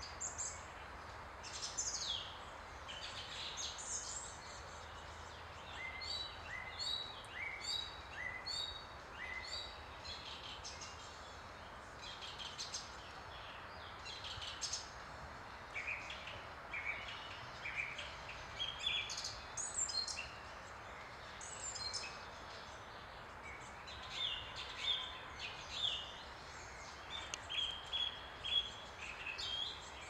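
Several small songbirds singing and chirping throughout, in short high notes and quick repeated phrases, over a steady outdoor hiss.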